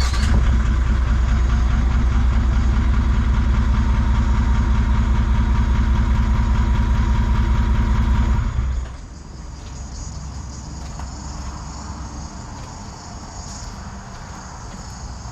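Toyota 1VD-FTV 4.5-litre V8 turbo diesel running steadily on its first start, just after catching. About eight and a half seconds in the sound drops sharply to a much quieter, steady level.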